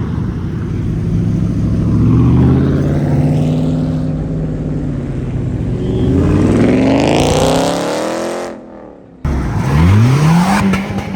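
Loud modified car engine revving and accelerating, its pitch climbing steeply about six seconds in. After a brief break, another rev climbs again near the end.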